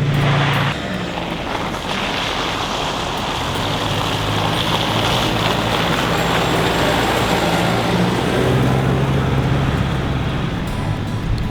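A four-wheel drive's engine running under load, with its low steady note under a dense rushing noise.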